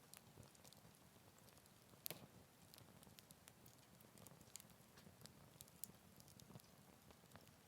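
Wood campfire crackling faintly: scattered small pops and ticks over a low hiss, with one louder pop about two seconds in.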